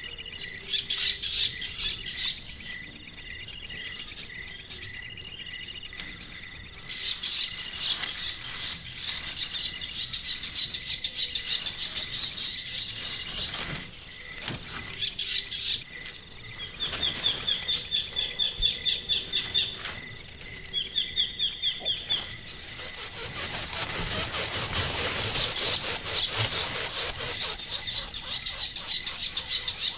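Cricket-like insects chirping in a steady, even rhythm of about three high-pitched pulses a second, with short series of bird chirps in the middle.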